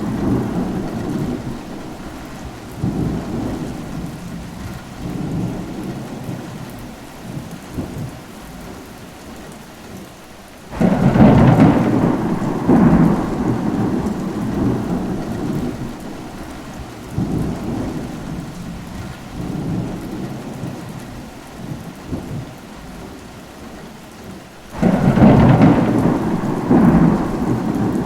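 Steady rain with rolling thunder. Twice, about 11 and 25 seconds in, a loud thunderclap breaks in suddenly and rumbles away over several seconds, with quieter rumbles between.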